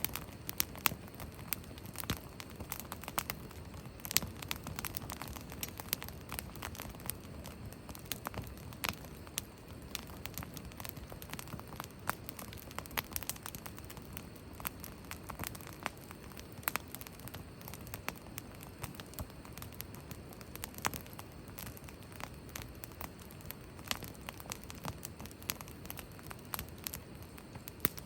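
Wood fire burning, crackling and popping with many sharp, irregular snaps over a steady low rush.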